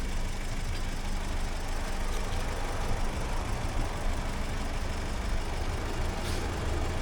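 A vehicle engine idling, a steady low rumble with a faint steady hum.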